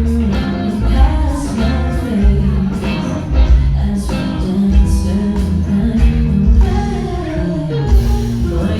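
A band playing live with a singer, guitar and a heavy, regular bass-drum beat, heard from backstage.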